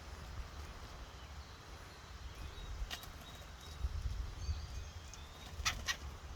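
Woodpecker striking with its bill: a single sharp knock about three seconds in, then two in quick succession near the end. Low wind rumble and faint short bird chirps run underneath.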